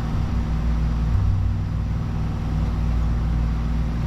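Steady low rumble with a constant hum underneath.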